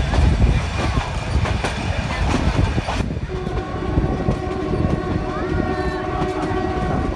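Ooty toy train (Nilgiri Mountain Railway) running, with a loud rumble and repeated clicks of the wheels on the rails. From about three seconds in its horn sounds one long steady note that lasts almost to the end.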